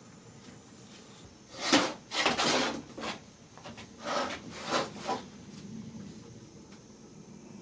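Small engine parts and tools handled on a workbench: a run of short scrapes and knocks, the loudest about two seconds in, with the last about five seconds in.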